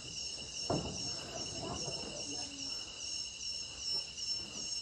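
Night insect chorus in a tropical rainforest: a steady pulsing trill with higher chirps repeating about three times a second. A soft knock comes under a second in.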